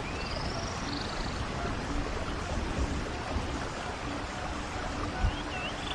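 A stream of running water rushing steadily, with birds chirping briefly near the start and again near the end. A low note repeats every half second or so under the water, and there is a single low thump about five seconds in.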